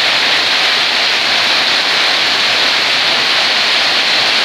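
Heavy downpour: a loud, steady hiss of rain falling on a flooded road and standing water.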